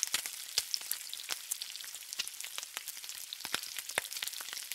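Food frying on a hot flat-top griddle: a steady sizzling hiss with frequent sharp pops and crackles of spattering fat.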